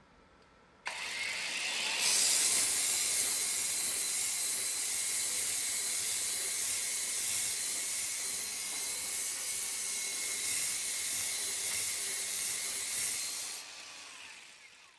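Pipe belt sander running a 40 mm sanding belt around a metal pipe, making a steady, hissy grinding sound. It starts about a second in, grows louder at about two seconds as the belt works the pipe, and dies away near the end.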